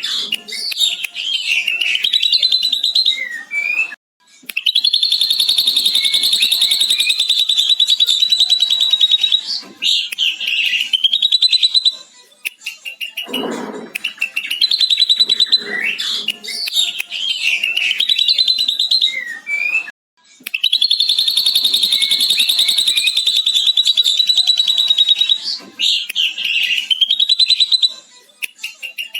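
Ashy drongo (srigunting abu) singing a long, rapid, chattering lovebird-style 'ngekek' trill, mimicked from a lovebird, lasting several seconds, with shorter varied calls between trills. The same sequence repeats about every sixteen seconds, as a looped training recording.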